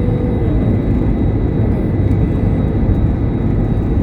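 Jet airliner's engines and rushing air: a steady, loud rumble with a faint high whine.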